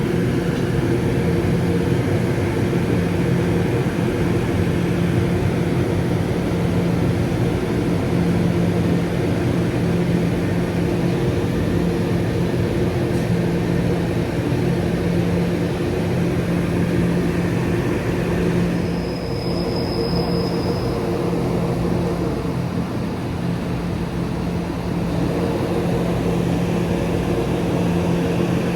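Train running with a steady low hum, a brief high-pitched tone sounding about two-thirds of the way through.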